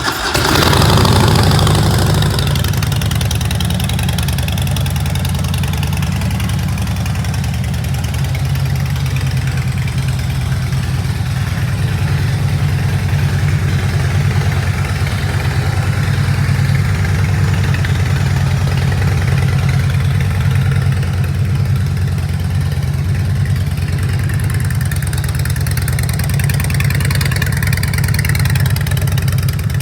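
A 2009 Harley-Davidson Night Train's 1584 cc V-twin, breathing through a Vance & Hines exhaust, idling steadily just after it has been started. It is a little louder for the first couple of seconds, then settles into an even idle.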